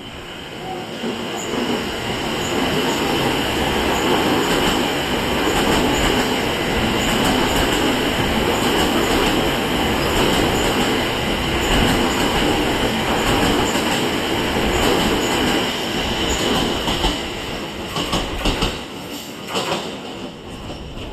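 JR East E231 series 500 electric commuter train passing through a station without stopping. A steady rumble of wheels on rail builds over the first couple of seconds and holds loud, then gives way to sharp clicks over the rail joints near the end as the last cars go by.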